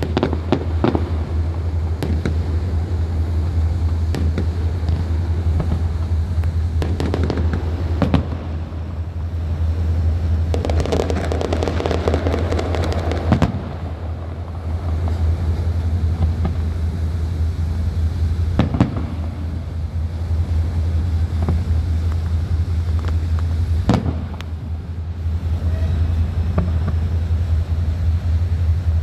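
Fireworks going off: scattered single bangs with a dense stretch of crackling partway through, over a steady low hum.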